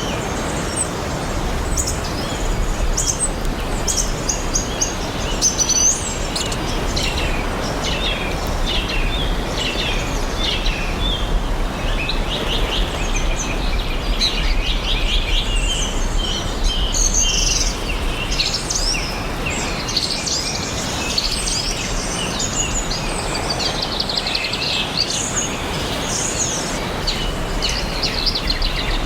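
Several forest songbirds chirping and singing together, with short chirps and rapid trills overlapping throughout, over a steady background hiss of outdoor ambience.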